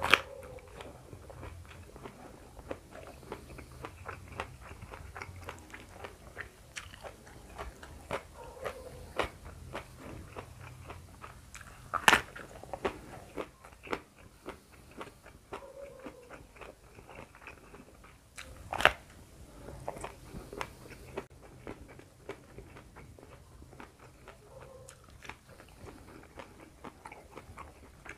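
A raw round purple eggplant being bitten and chewed close to the microphone: a steady run of crisp crunching and wet clicks, with two loud sharp bites a few seconds apart near the middle.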